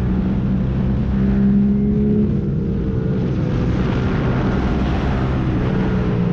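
Yamaha MT-07's 689 cc parallel-twin engine running hard through a full MIVV exhaust with the catalyst removed and no dB killer, its pitch rising and easing back with the throttle.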